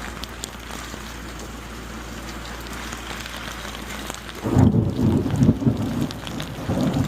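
Steady rain falling, then about four and a half seconds in a loud, low rumble of thunder that rolls on for a couple of seconds.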